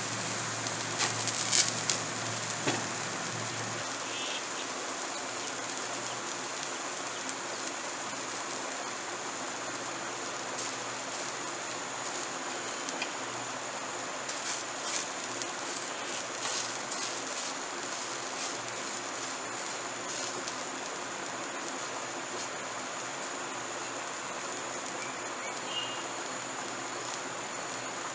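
Eggplant slices frying in oil on a cast-iron dosa tawa, a steady sizzle, with a metal spatula clicking and scraping against the pan in the first few seconds and again about halfway through.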